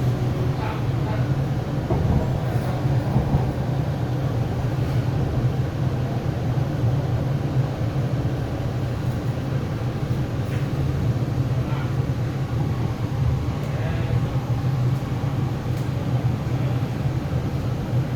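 Interior running noise of an MTR East Rail Line R-train, a Hyundai Rotem electric multiple unit, travelling between stations: a steady low rumble with a few faint clicks.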